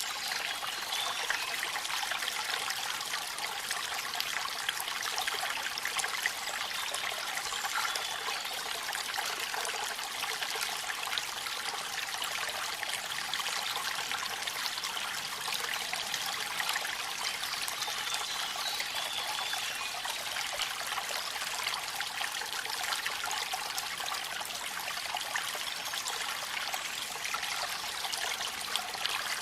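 Waterfall: a steady, even rush of falling water with trickling and splashing, with little low rumble.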